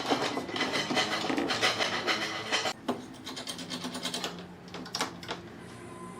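Wood being worked by hand with scraping, rasping strokes for the first half, then a quieter stretch with a few sharp clicks.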